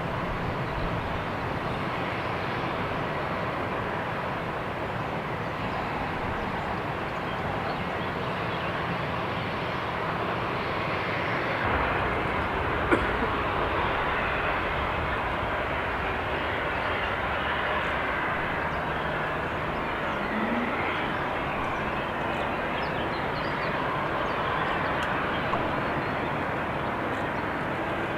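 Jet airliner engine noise, a steady rushing sound that swells slightly about halfway through.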